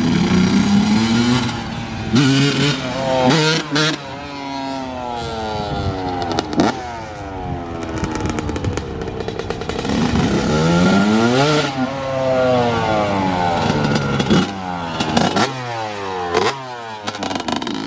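Yamaha YZ125 single-cylinder two-stroke dirt bike being ridden up and down the road, its engine revving up, then falling away in pitch several times as it passes and shifts.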